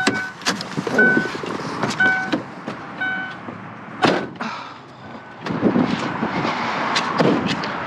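A vehicle's door-open warning chime pinging about once a second, mixed with knocks and rustling; a sharp knock comes about four seconds in, after which the chime grows faint and stops, and a rushing noise fills the end.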